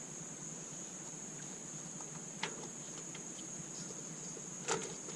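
Steady high-pitched insect chirring, like crickets, with two light clicks, one about two and a half seconds in and one near the end.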